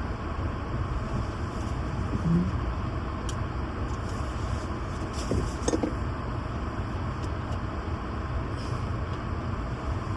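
Steady vehicle and road noise: a continuous low rumble with a wash of hiss, and a few light clicks around the middle.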